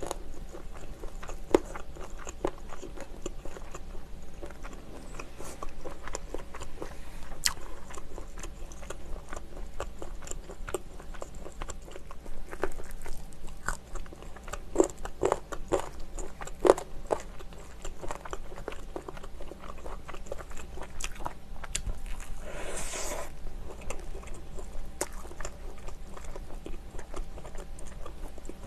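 Close-miked chewing and biting of sauce-glazed fried chicken: wet mouth sounds with frequent irregular crackling clicks.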